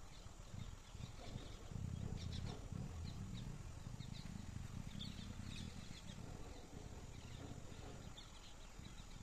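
Faint, scattered bird chirps over a low, uneven rumble that is strongest from about two to six seconds in.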